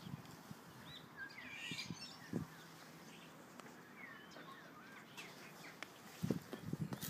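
Faint birds chirping in the background: scattered short, high calls that bend up and down. Near the end come several soft low bumps.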